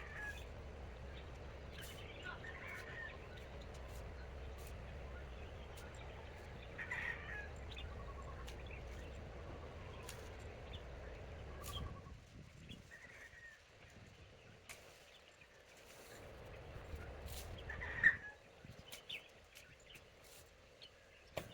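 Chickens calling: a few short, scattered calls, the loudest about eighteen seconds in, over a low steady rumble that drops away about twelve seconds in.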